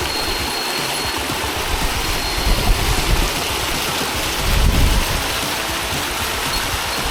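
Waterfall water rushing steadily, with brief low rumbles swelling up about two and a half and five seconds in.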